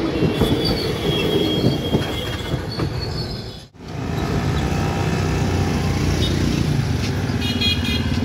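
Indian Railways passenger coaches rolling past: a dense rumble with wheels clacking and some high wheel squeal. After a sudden cut about four seconds in, motor scooters and motorbikes ride across the tracks, with a short high beep near the end.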